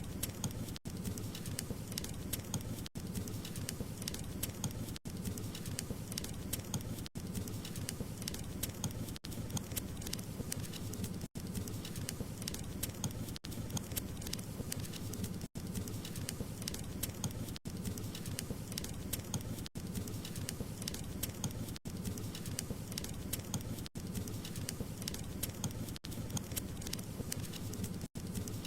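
Wood fire crackling: a dense patter of small pops and snaps over a low, steady rumble. The sound cuts out for an instant about every two seconds.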